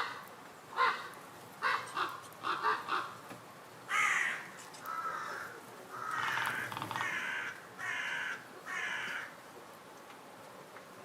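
A bird calling over and over: five short calls in the first three seconds, then several longer, rasping calls, stopping about nine seconds in.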